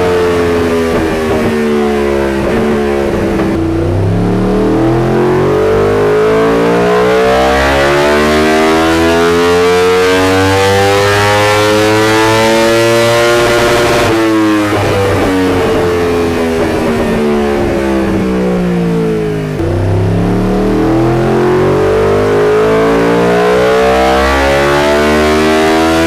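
Yamaha R1 inline-four engine on a dyno: revs falling off at first, then a full-throttle pull climbing steadily for about ten seconds, throttle shut and revs dropping, then a second pull climbing again near the end.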